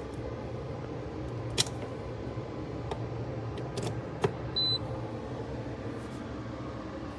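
Cuisinart Barista Bar coffee maker running with a loud, constant mechanical drone, which the owner blames on a terrible motor. Two sharp clicks and a short high beep partway through.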